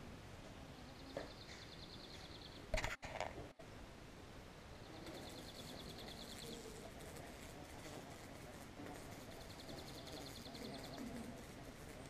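A small songbird singing a short, rapid, high trill three times, each lasting about a second and a half, spaced about four seconds apart. About three seconds in there is a brief, loud clatter close to the microphone.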